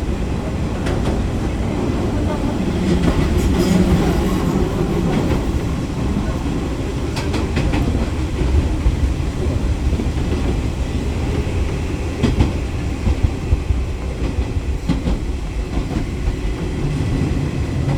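Eizan Electric Railway train running: a steady low rumble with the clickety-clack of wheels passing over rail joints.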